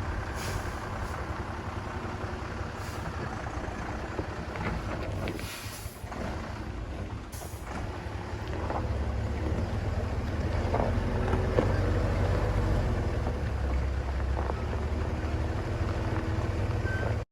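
Expedition truck's engine running steadily, with a few short hisses of air, louder from about nine seconds in; it cuts off suddenly at the end.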